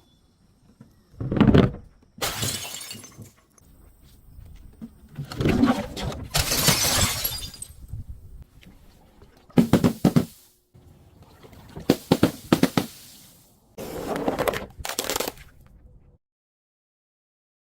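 Glass being crushed and shattered in a series of about seven loud, crunching bursts, some with a brief ring of glass. Near the end it cuts to dead silence.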